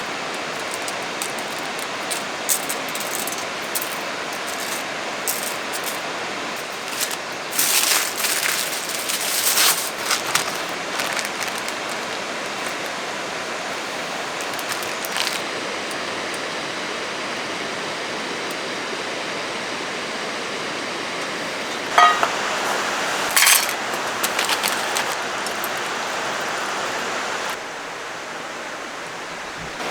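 Steady rushing of a mountain stream, with a flurry of light clinks and knocks about a third of the way in and two sharp clicks about three-quarters through. The rush drops a little in level near the end.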